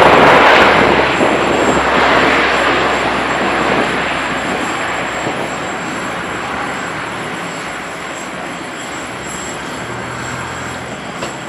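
Four-engine turboprop military transport aircraft passing overhead, loudest in the first second or two and then steadily fading as it moves away.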